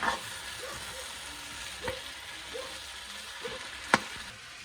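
Potatoes frying in hot oil in a pan, a steady sizzle, with three sharp knocks on the pan about two seconds apart. The sizzle eases off near the end.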